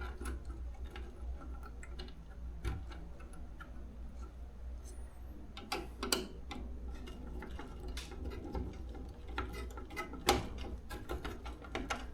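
Scattered small clicks and taps of hands working on a garage door opener's wiring, a few louder knocks among them, over a steady low hum.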